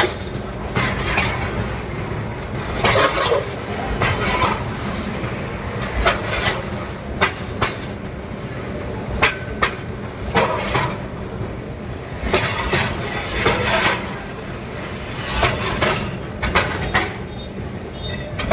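A train running with a steady low rumble, broken by frequent irregular clanks and rattles from the wheels and carriages.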